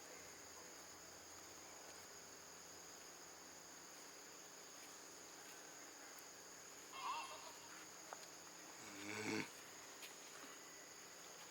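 A faint, steady high chorus of night insects. Two short, louder calls break in, about seven and nine seconds in, the second swelling for about a second before cutting off suddenly.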